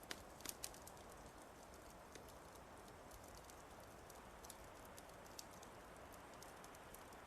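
Wood fire crackling faintly: irregular sharp snaps and pops, a few close together near the start, over a steady soft hiss.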